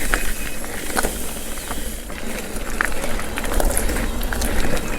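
Mountain bike rolling over rough trail: steady tyre and drivetrain noise with scattered clicks and rattles, and a low wind rumble on the microphone.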